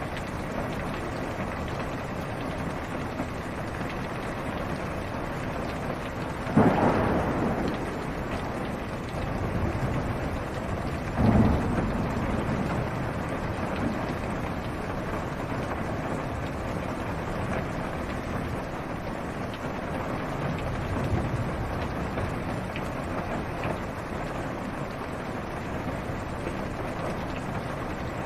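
Steady rain falling on a car's roof and windows, heard from inside the car. Thunder cracks loudly twice, about four seconds apart, each trailing off in a rumble.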